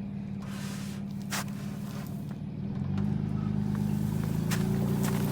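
Four-wheel-drive truck engine running steadily while towing, then working harder and louder about three seconds in.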